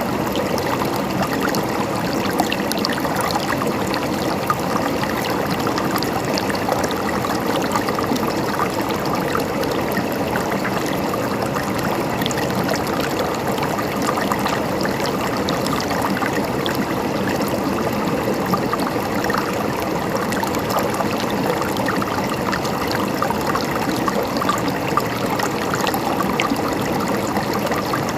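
Running water gurgling and splashing steadily, an even rush with fine trickling detail and no change throughout.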